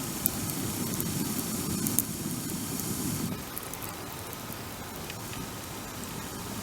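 Wood bonfire burning: a low steady rush of flames with scattered sharp crackles and pops. The rush eases a little over three seconds in.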